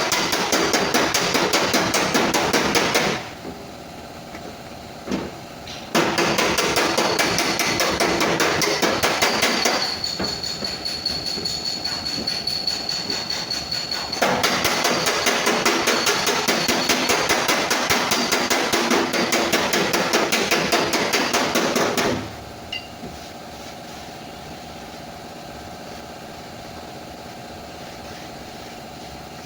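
Rapid hammering on a car's sheet-metal fender panel, a dense run of quick strikes. It comes in a short burst, pauses, then runs long again, softer for a few seconds in the middle, before dropping away near the end.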